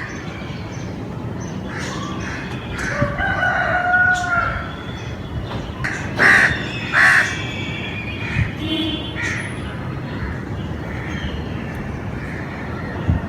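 Chickens calling, with a rooster crowing, over a steady background hiss; two loud harsh calls come about six and seven seconds in.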